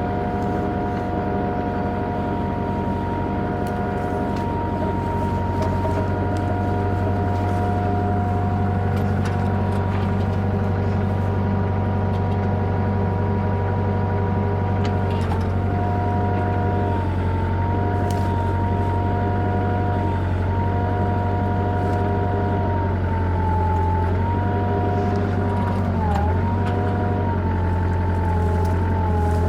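Kubota KX121-3 mini excavator's diesel engine running steadily at a light throttle, its pitch sagging briefly several times in the second half as the hydraulics are worked, most deeply once near the end.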